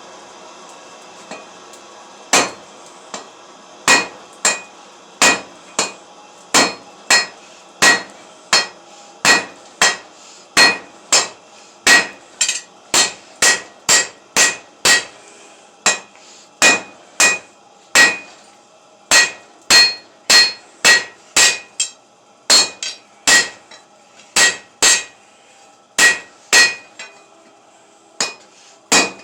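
Hand hammer forging steel on an anvil: a long run of blows at a little under two a second, each with a bright metallic ring, broken by a few short pauses.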